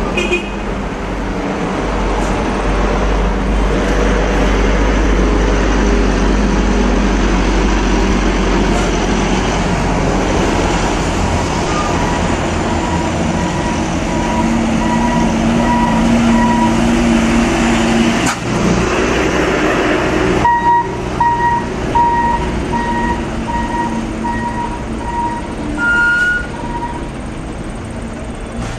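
Heavy truck engine running steadily under load, with a low rumble and road noise. A short high beep repeats about one and a half times a second through the last third.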